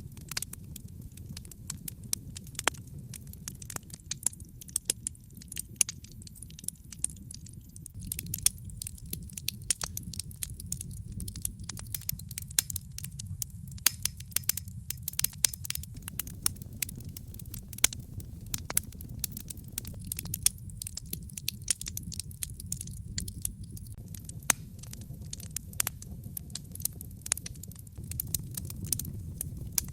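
Wood fire in a fireplace crackling and popping, with frequent sharp snaps over a steady low rumble of the burning.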